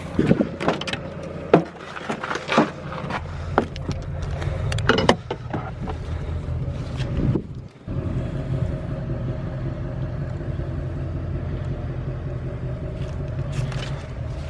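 Clinks and rattles of metal parts being handled over a low hum. Then, after a sudden cut, a car engine runs with a steady drone.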